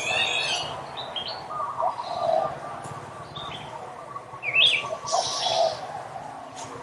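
Several birds chirping and calling over one another in short gliding chirps, with lower calls beneath, and one louder sharp rising call a little past the middle.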